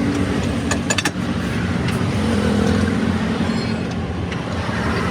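Motor vehicle engine running with road noise, its pitch shifting a little, with a few sharp clicks about a second in.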